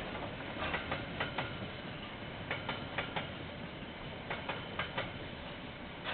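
Train wagons rolling past, their wheels clicking over a rail joint in groups of about four clicks, one group every couple of seconds, over a steady rumble.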